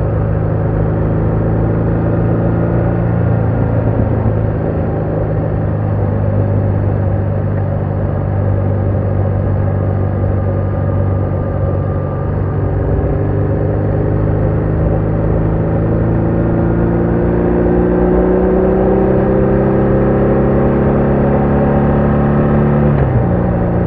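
BMW R1200R boxer-twin engine running on the road, first at a steady pitch, then rising slowly over about ten seconds as the bike accelerates in gear. The pitch drops suddenly near the end, as on an upshift.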